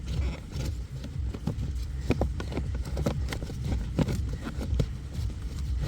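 Irregular plastic knocks and scrapes as a cabin air filter is worked and pushed into its housing behind the glovebox area, over a steady low hum.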